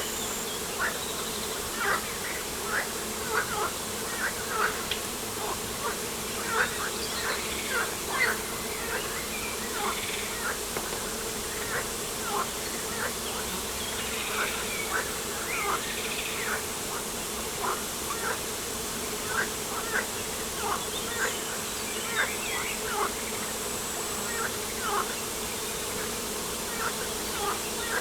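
Small birds calling in many short, sharp chirps, about one or two a second, over a steady low buzzing drone.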